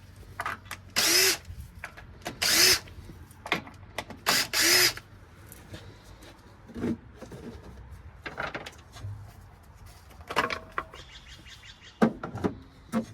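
Cordless drill-driver with a number 1 Phillips bit, spinning up and down in short bursts, about four in the first five seconds, backing out valve cover screws. After that, quieter clicks and knocks of parts being handled.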